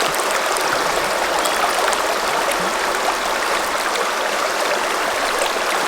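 Shallow river water running over rocks, a steady even rush.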